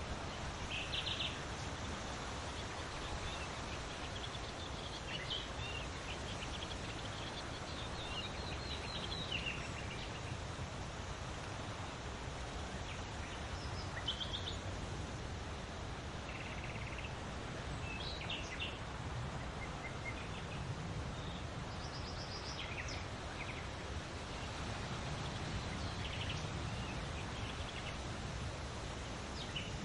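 Steady wind noise with small birds chirping now and then, short bursts of high chirps scattered through.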